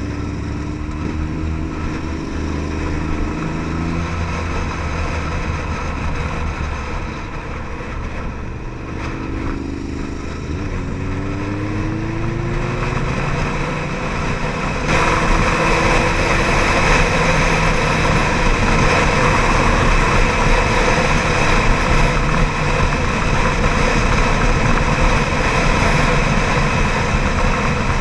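Ducati Monster 795's air-cooled L-twin engine running under way, its pitch rising several times as it accelerates. About halfway through, a louder, even rushing noise of wind over the moving camera joins it.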